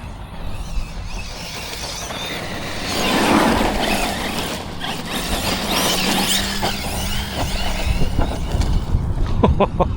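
Arrma Notorious 6S RC monster truck being driven hard, its electric motor whining up and down over tyre noise on dirt. It grows louder about three seconds in, and a quick run of clicks comes near the end.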